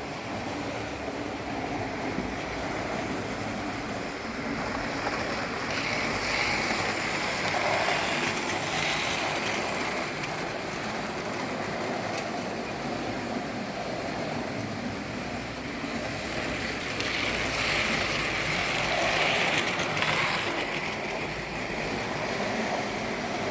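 Electric model railway train running on the track, a steady whirring of motor and wheels that grows louder twice as the train passes close by, about six and about seventeen seconds in.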